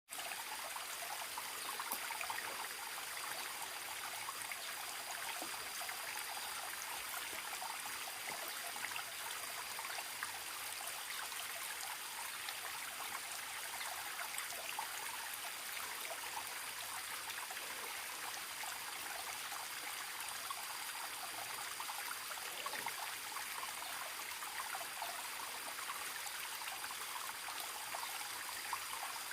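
Forest stream trickling and babbling steadily, with a thin, steady high-pitched tone above the water.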